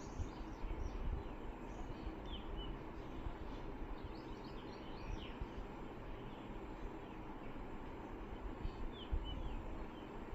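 Faint bird chirps: a few short, high calls in small clusters about a second in, around four to five seconds and near nine seconds, over steady low background noise.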